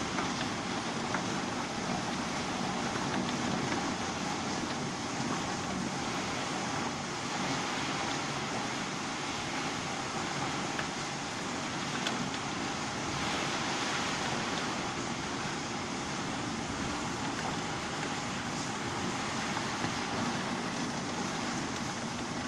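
Heavy rain pouring down steadily, an even hiss with the odd faint tick of drops striking close by, and car tyres swishing through water on the wet street.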